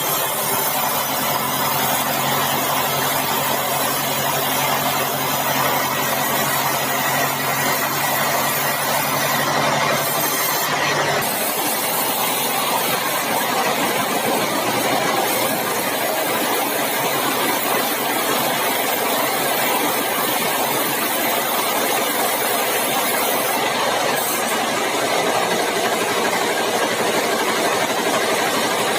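Bandsaw sawmill running while sawing meranti timber: a steady, loud mechanical hiss with a low engine hum that fades about eleven seconds in while the hiss carries on.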